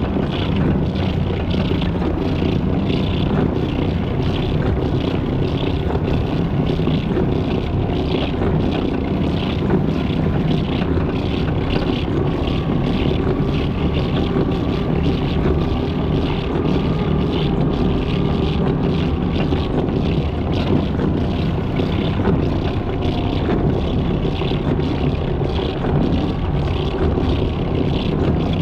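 A mini truck fitted with rubber track conversions driving, its small engine running steadily under load with the noise of the tracks.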